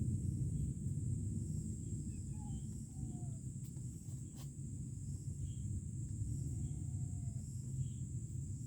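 Insects, crickets or cicadas, giving a steady high-pitched drone over a low outdoor rumble, with a couple of sharp clicks near the middle and a few faint short chirps.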